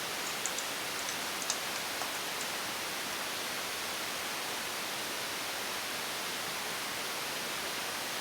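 Steady, even hiss, with a few light ticks near the start.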